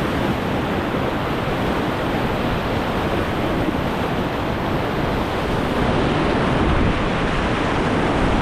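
River whitewater rushing steadily around a raft on a rapid, with some wind noise on the microphone.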